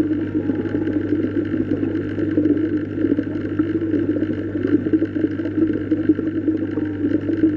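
Steady underwater ambience: a continuous low hum under a dense, even wash of water noise.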